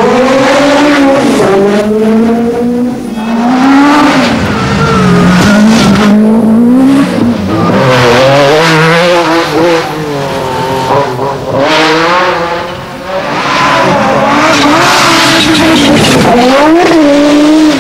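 Group B rally car engine driven hard, its pitch climbing and dropping again and again through gear changes.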